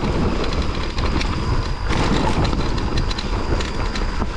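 Mountain bike riding down a rough, rutted dirt trail: tyres rumbling over the ground, with a constant rattle and many small knocks from the bike over the bumps, and wind on the microphone.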